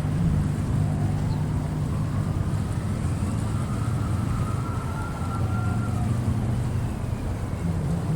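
Wind and sea waves at the shore under a steady low engine hum, with a faint tone gliding up and then back down through the middle.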